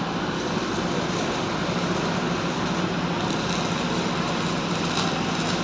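Steady mechanical rumble and hiss with a low hum, unchanging throughout.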